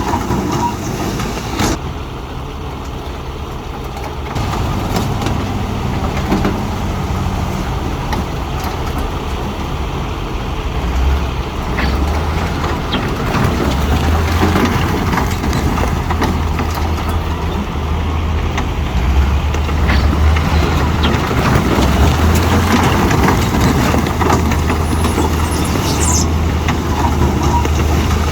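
Heavy diesel earthmoving machinery running on a construction site, a steady low engine note that gets louder about four seconds in and again after about ten seconds.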